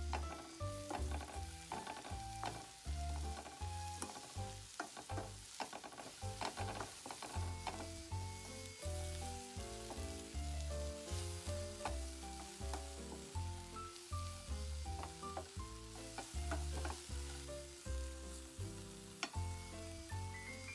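Dried anchovies sizzling in a frying pan while a wooden spatula stirs and scrapes them, with scattered clicks of the spatula on the pan. Background music with a melody and a bass line plays along.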